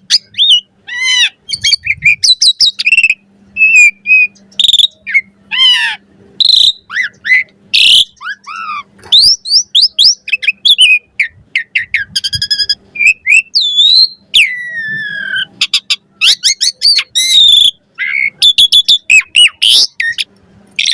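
Asian pied starling singing a long, varied song: rapid whistles, rising and falling slurs and chattering trills following one another with only brief pauses.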